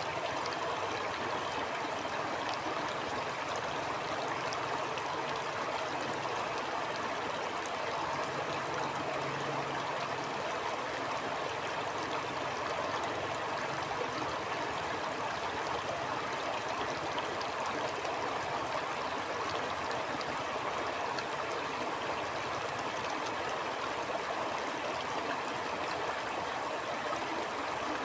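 A stream flowing over stones: a steady rushing babble with small splashes and trickles, even throughout.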